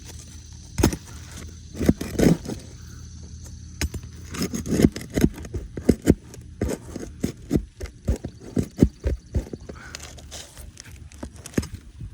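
Irregular knocks and scraping of a hammer and roof snake (shingle ripper) working under a roof shingle to free the nails still holding it. A quick run of strikes comes in the middle, about two to three a second.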